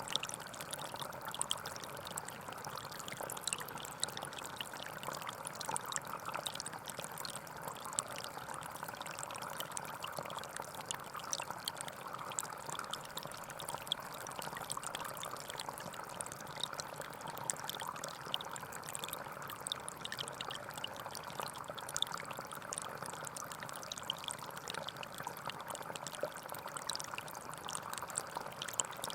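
Small forest stream flowing steadily over stones, a constant trickling rush with fine splashing and bubbling throughout.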